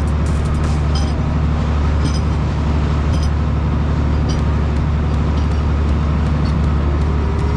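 Fishing boat's engine running steadily with a deep, even hum, and a light click about once a second.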